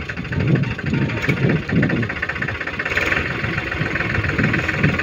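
Tractor diesel engine running, loud and uneven, with a rattling clatter over the low engine note.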